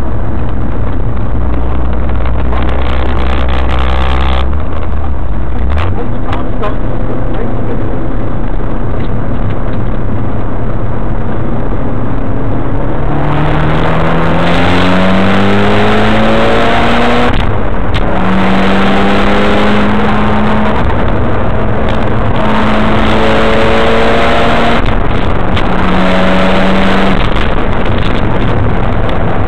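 Mitsubishi Lancer Evolution wagon's engine heard onboard at speed on a race track, under loud road and wind noise. About halfway through the engine note climbs steadily under acceleration, then drops and climbs again in a few short steps through the gear changes.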